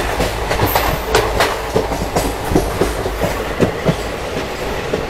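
Passenger train running at speed, its wheels clacking and knocking irregularly over the rail joints above a steady running rumble, heard at an open coach doorway.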